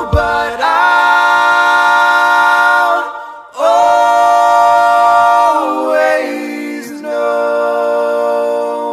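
Several voices singing long held chords in close harmony, a cappella. The singing breaks briefly about three seconds in, the chord steps down a little after halfway, and the last chord is held to the end.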